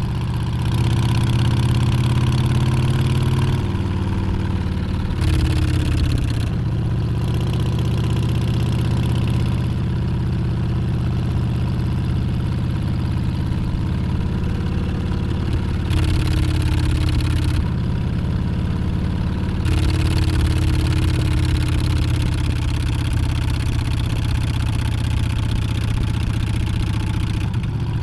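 Harley-Davidson Street Bob's Milwaukee-Eight 114 V-twin running on the road, its pitch rising under throttle and stepping down several times, with louder stretches of acceleration.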